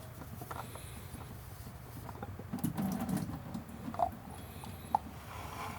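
Scattered light clicks and knocks of parts and tools being handled, with two short squeaks, over a low steady hum.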